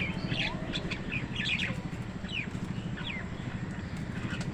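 Small wild birds chirping, with several short chirps a second, some sliding downward in pitch. A steady low hum runs underneath.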